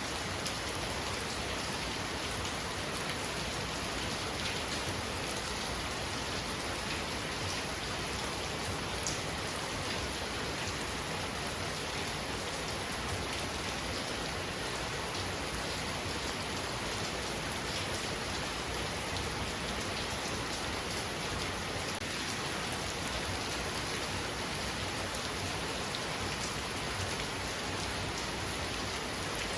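Heavy rain falling steadily, a dense even hiss with many small drop ticks, unbroken and unchanging in level.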